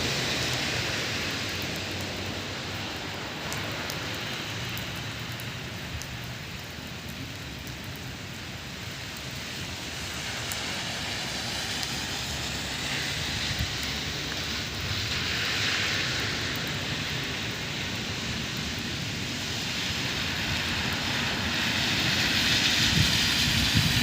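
Rain falling, a steady hiss that swells louder a couple of times.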